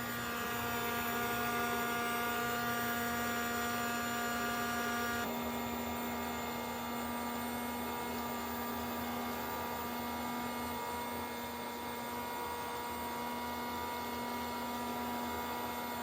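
A steady electronic hum of several held tones, which shift to a different set about five seconds in.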